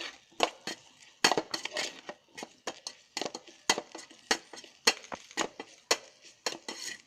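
A spoon stirring and frying spiced masala in an electric kettle, with repeated sharp, irregular clinks and scrapes of the spoon against the kettle's sides.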